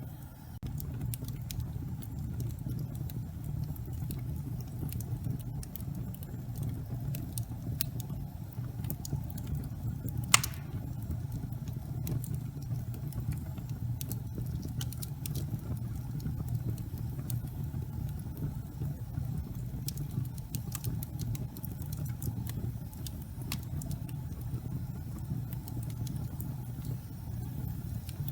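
Fire burning in a fireplace: a steady low rush of flames with scattered faint crackles and one sharper pop about ten seconds in.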